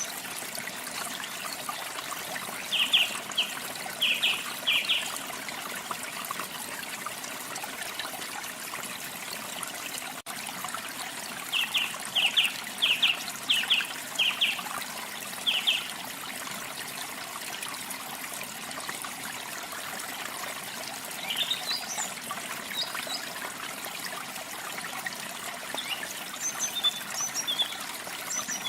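Steady rush of running water from a waterfall, with songbirds singing over it: a run of short repeated notes about three seconds in and again around twelve seconds, then higher, thinner chirps near the end.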